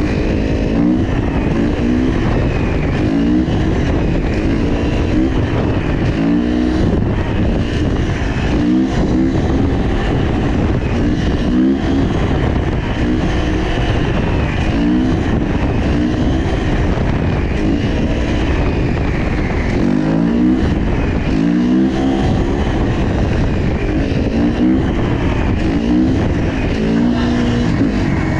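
Motorcycle engines, likely dirt bikes, revving up again and again in short rising bursts about once a second over heavy wind rushing on the microphone while riding.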